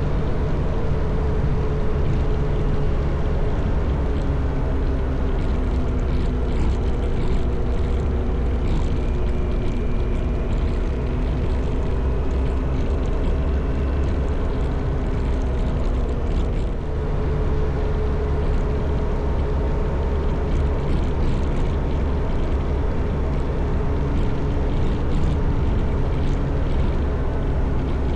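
Motorcycle engine running while riding, heard under a heavy low rumble of wind on the microphone; the engine note drifts slowly up and down, with a brief drop in level about 17 seconds in.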